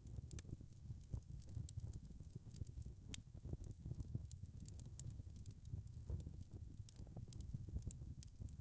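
Wood fire crackling: frequent small, sharp pops and crackles over a steady low rumble of the burning logs.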